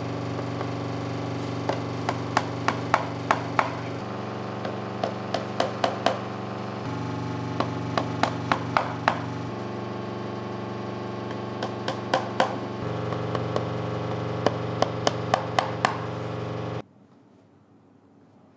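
A small hammer tapping a shoe sole in quick runs of five to seven light strikes, a pause between each run, over a steady droning hum whose pitch shifts every few seconds. The sound cuts off abruptly near the end.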